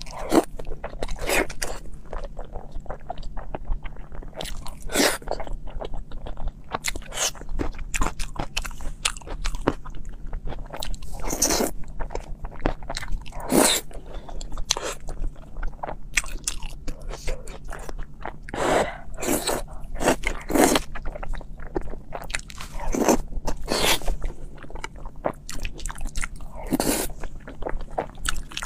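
Close-miked eating: wet chewing and mouth sounds with sharp, crunchy bites landing irregularly every second or so, as gelatinous pieces in chili sauce are chewed.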